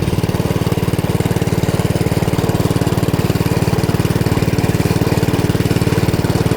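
Small engine idling steadily, with an even, rapid putter and no revving.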